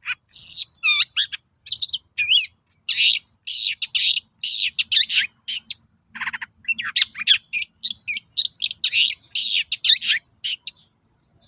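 Long-tailed shrike (cendet) singing in full voice: a fast, dense run of short, sharp chirps and gliding whistles that breaks off about a second before the end.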